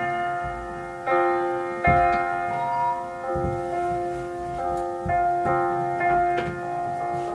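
Solo piano playing a slow, gentle classical piece: chords and single notes struck every half second to a second, each left to ring and fade.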